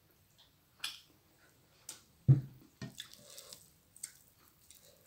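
Close-miked wet mouth clicks and smacks of someone chewing a tofu fritter, a string of separate short sounds with pauses between them, as fingers break the fritter into rice on the plate. A single low thump a little over two seconds in is the loudest sound.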